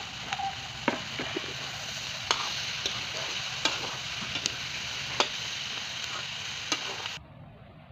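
Vegetables sizzling in a hot wok while a metal spoon stirs them, knocking and scraping against the pan about once a second. The sizzle drops away sharply near the end.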